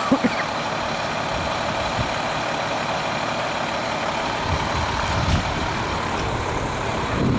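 A heavy vehicle's engine idling steadily, with a deeper low rumble building from about halfway through.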